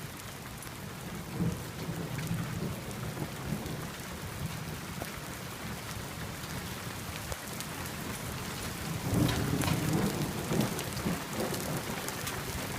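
Steady rain falling, with many sharp drop impacts close to the microphone. Low rolls of thunder rumble under it, swelling about a second and a half in and again, louder, about nine seconds in.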